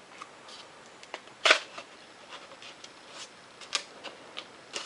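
Scattered light clicks and rustles of a small foam cup being handled, the loudest about one and a half seconds in and another near the end.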